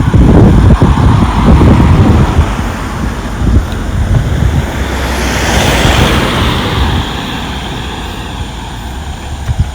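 A road vehicle passing close by, its noise swelling to a peak about six seconds in and then fading, over low wind rumble on the microphone.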